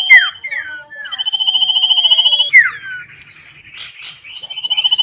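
Common iora (sirtu) singing: a long, very fast trill held for about a second and a half, then sharp downward-sliding whistled notes. The phrase repeats, and a new trill starts near the end.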